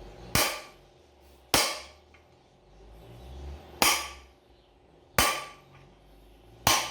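Five sharp metal-on-metal hammer taps, unevenly spaced, each with a brief ring, driving a 6205 ball bearing into its seat in the washing machine's lower crosspiece. These are the final taps on a bearing that is already fully seated.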